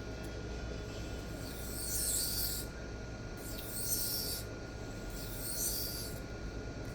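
Three separate strokes of a Nitro V steel knife blade drawn across a Sharpal diamond sharpening plate, each a short, hissy scrape of about a second.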